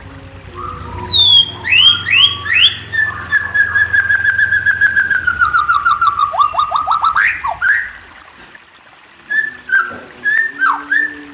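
A songbird singing: a few sharp falling whistles, then a long rapid trill that slowly drops in pitch over about four seconds and ends in quick downward notes. After a pause, a few short whistled notes come near the end.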